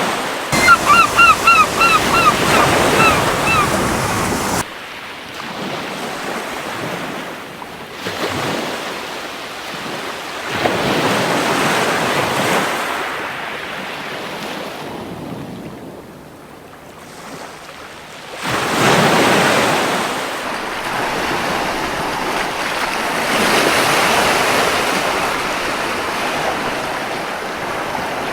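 Waves breaking and washing up a beach in several slow swells that rise and fade. In the first few seconds a gull gives a rapid run of about ten short, loud calls.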